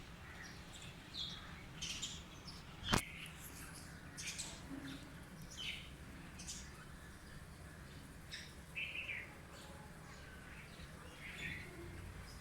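Birds chirping, with short high calls scattered throughout over a low steady background hum. One sharp click about three seconds in.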